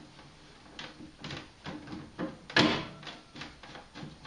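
A string of short knocks and clicks from tools and parts being handled at a boiler, the loudest a sharp knock about two and a half seconds in.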